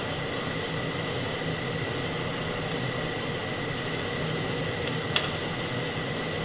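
TIG welding arc on carbon steel, a steady hiss with a thin high whine over it. A single sharp click about five seconds in.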